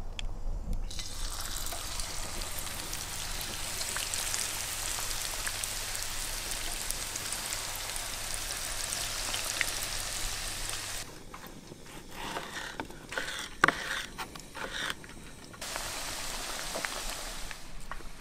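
Cornflake-coated fish fillets frying, a steady sizzle. About eleven seconds in it drops to a quieter crackle with a few sharp ticks, then the full sizzle returns a few seconds before the end.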